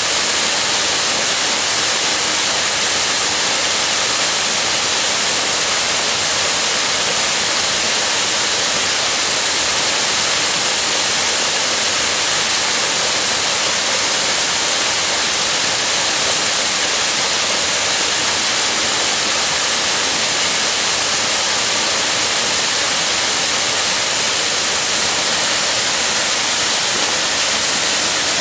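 Waterfall rushing: a steady, loud wash of falling water, more hiss than rumble.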